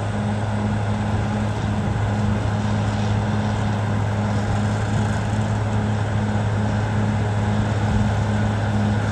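Caterpillar D6R XL bulldozer's diesel engine running steadily at an even pitch.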